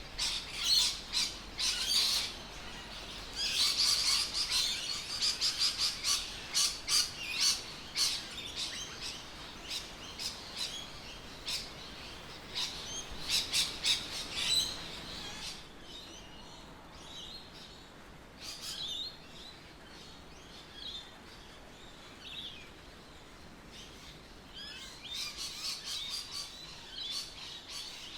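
Birds chirping: many short, high calls in quick runs, thinning out about halfway through and picking up again near the end.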